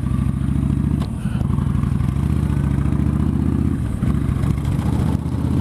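Yamaha Stryker's V-twin engine running steadily while the motorcycle is ridden, its note shifting a little about four seconds in.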